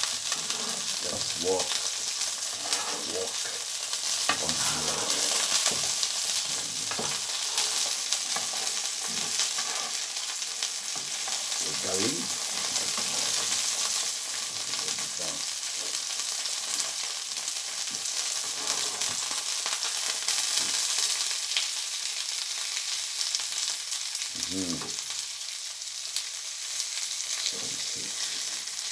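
Smoked haddock fillet frying in olive oil with garlic, chilli and parsley in a frying pan, a steady sizzle, with occasional scrapes and clinks of a spoon and fork moving the food in the pan.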